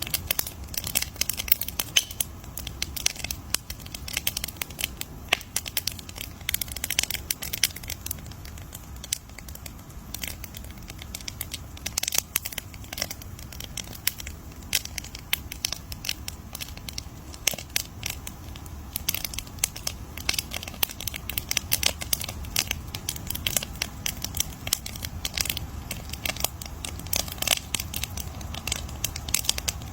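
Wood fire crackling, with many irregular sharp pops and snaps over a low rumble of burning.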